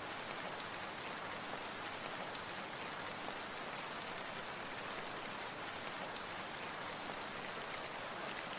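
Steady rain falling, an even hiss of many fine drops that does not change in level.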